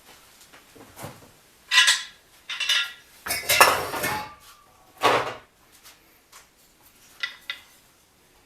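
Small metal objects clinking and clattering against each other in five or six separate rattles, the longest about a second long in the middle.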